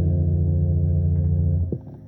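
Electric bass guitar holding a final sustained note, which is cut off sharply about 1.7 seconds in with a short slide. A faint amplifier hum is left after it.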